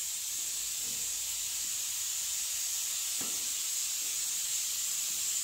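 Steady high-pitched hiss of background noise, unchanging throughout, with a faint brief sound about three seconds in.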